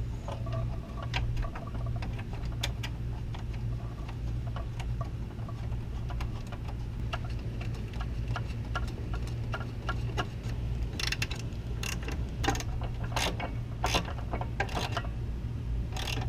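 Hand ratchet wrench clicking in short runs during reassembly of the engine bay, with louder metal knocks and clinks of tools and parts about two-thirds of the way in, over a steady low hum.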